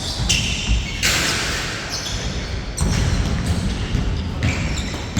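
Basketball game sounds on a court: a basketball bouncing, with players' footsteps and scattered knocks.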